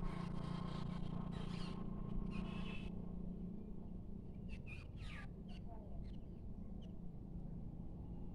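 Scattered short bird chirps, a few brief calls at a time, over a steady low background hum.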